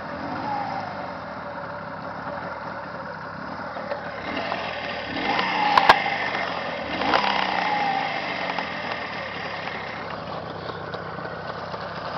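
A new engine idling, revved briefly twice a little past the middle, each rev falling back to idle, with one sharp click between the two revs.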